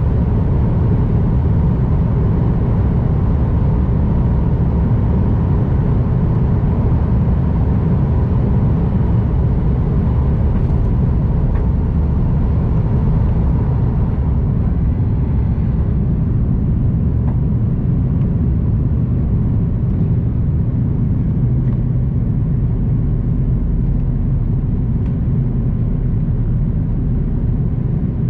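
Airbus A330-300 jet engines running during a touch-and-go, a loud, steady deep rumble whose higher hiss fades slightly about halfway through.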